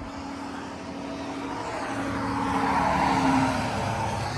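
A vehicle driving past, its road noise swelling to a peak about three seconds in and dropping in pitch as it goes by.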